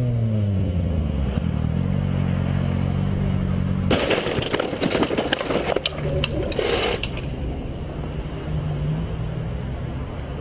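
A vehicle engine drops in pitch as it slows, then runs steadily. About four seconds in, some three seconds of dense crackling and clattering sound over it, after which the engine runs on.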